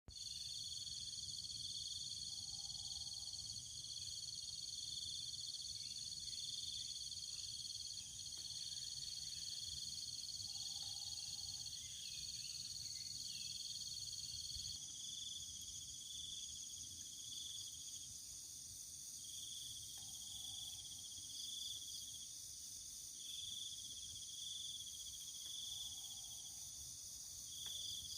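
A chorus of insects calling in several steady high-pitched tones, the lowest one turning to an even pulsing from about halfway through. A few faint short lower calls come at intervals of several seconds.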